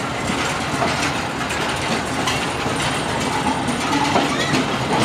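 Train moving off: a steady rattling and clanking of carriages and running gear over the track.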